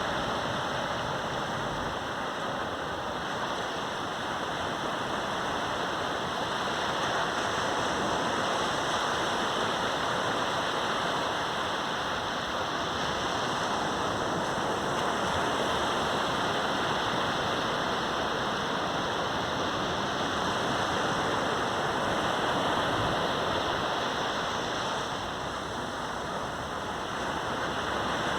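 Caribbean surf breaking and washing up a sandy beach as a continuous hiss that swells and eases slowly with the incoming waves, dipping about three-quarters of the way through and building again near the end.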